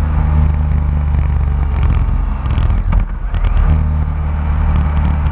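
BMW K1600 inline-six motorcycle engine running steadily at road speed, mixed with wind rush. The engine note dips briefly about three seconds in, then comes back.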